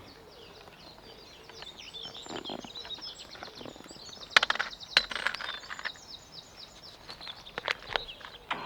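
Birds singing: many quick, high chirps and trills overlapping. A few sharp clicks come about four and five seconds in and again near the end.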